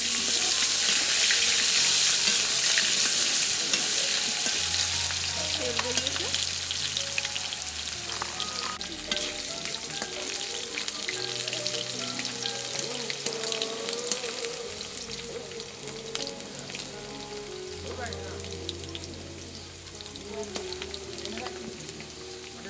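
Potato chunks sizzling in hot oil in an aluminium kadai, with the scrape and tap of a metal spatula stirring them. The sizzle is loudest at first and gradually dies down.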